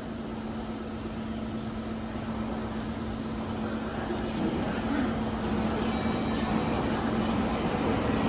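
Meitetsu 5000 series electric train pulling out of the station, its running noise growing steadily louder as it gathers speed. A steady low hum fades out near the end.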